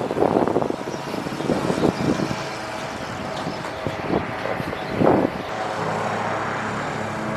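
Motorbike engine running, settling into a steady even hum for the last couple of seconds.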